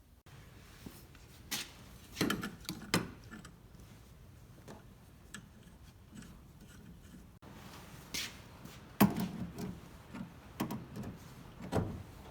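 Irregular clicks, knocks and rubbing of hand tools and plumbing fittings being worked, as a water-heater supply connection is taken apart and refitted.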